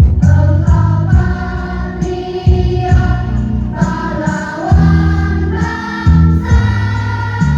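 A choir singing a song in held, changing notes over accompaniment with a strong, regular low beat.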